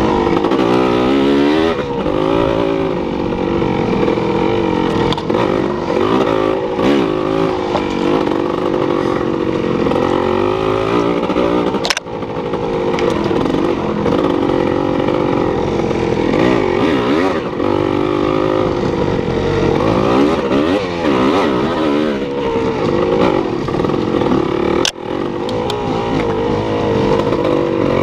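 Engine running with revs that keep rising and falling, with two brief breaks partway through.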